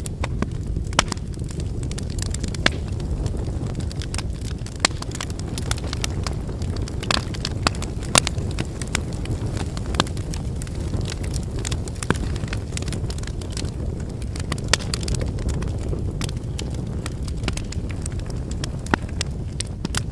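Wood campfire burning: a steady low rumble of flames under irregular sharp crackles and pops from the burning firewood.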